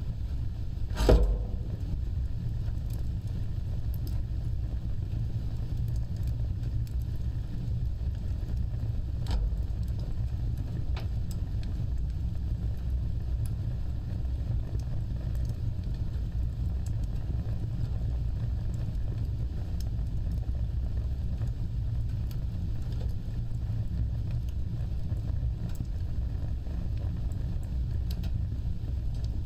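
Fire burning with a steady low rumble of flames, one loud crackling pop about a second in and a few fainter snaps later on.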